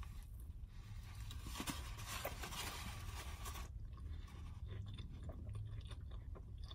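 Close-up chewing of a mouthful of Popeyes spicy fried chicken sandwich, with crisp crackling from the breading over the first few seconds, fainter afterwards.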